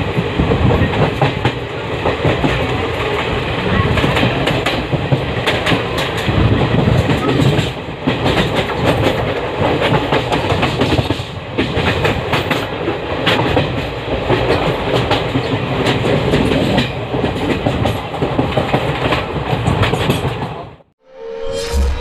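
Passenger train running at speed, heard from on board: steady rumble of the coaches with wheels clattering over rail joints and points in quick irregular clacks. About 21 seconds in the sound cuts off abruptly, and a short swoosh-like sound effect starts just before the end.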